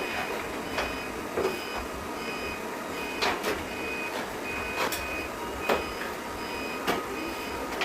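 Repeated electronic beeping, about two short high beeps a second, with scattered sharp clicks and knocks over it.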